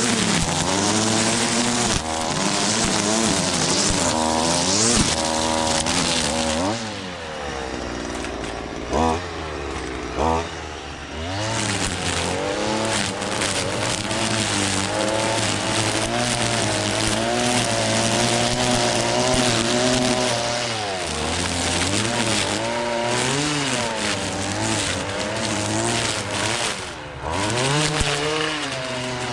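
Gas string trimmer's small engine running, its speed rising and falling over and over as it cuts weeds. About a third of the way in it drops back for a few seconds, with two short blips of throttle, then picks up again.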